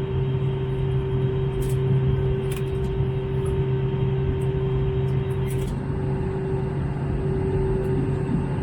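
Steady cabin noise of an Airbus A321neo in flight: an even rush of engine and airflow noise with a constant low hum and a fainter, higher hum on top, heard during the descent toward landing. A few faint ticks sound in the cabin.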